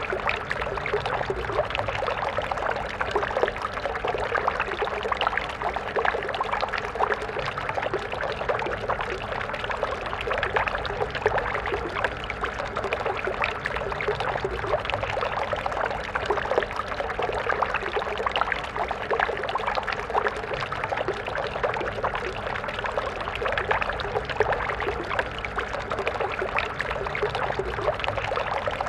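Stream water flowing and splashing over rocks, a steady babbling rush with constant small splashes.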